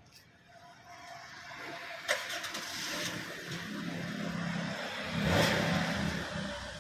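Car engine running, growing louder to a peak about five seconds in and then easing off, as a car drives close by. A sharp click sounds about two seconds in.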